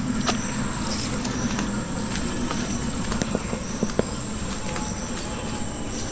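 Steady high-pitched drone of insects, with scattered light ticks of footsteps on a dirt path.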